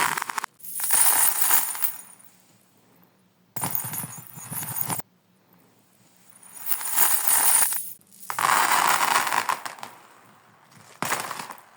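Marbles rolling and clattering along a marble run, heard in reverse. There are several bursts of rattling and clinking, each swelling and then cutting off abruptly, with short quiet gaps between them.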